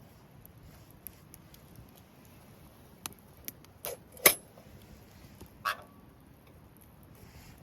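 A few sharp knocks and clicks of objects being handled, the loudest about four seconds in; one a little later rings briefly on a single tone.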